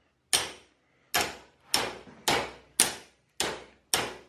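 A hammer striking a dirt bike's metal brake lever to bend it back into shape. There are seven sharp blows at a slightly uneven pace, about one every half second to second, each with a brief ring.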